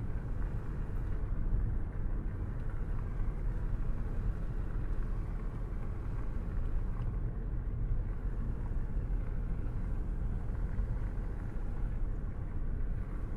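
A steady low rumble of road and engine noise from a car driving along at steady speed.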